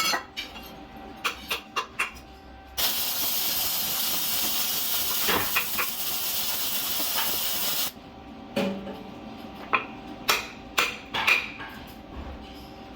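A loud, steady hiss that starts abruptly about three seconds in and cuts off sharply about five seconds later, with light clicks and knocks of metal being handled before and after it.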